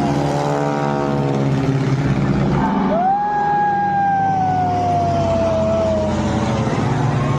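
Military aircraft passing over during an air show display. Its engine note sinks slightly in pitch. About three seconds in, a strong whine swoops up and then falls slowly over a few seconds as the aircraft goes by.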